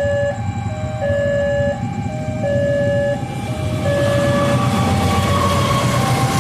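Railway level-crossing warning alarm sounding a steady electronic two-tone pattern, switching pitch about every 0.7 s. From about halfway through, the rumble of an approaching train builds up underneath it.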